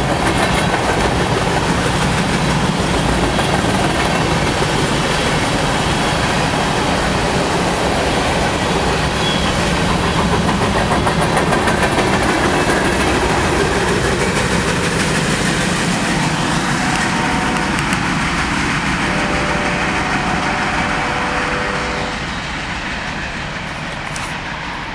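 Empty grain cars of a Norfolk Southern freight train rolling past, wheels clacking over the rail joints in a steady rumble that eases a little near the end.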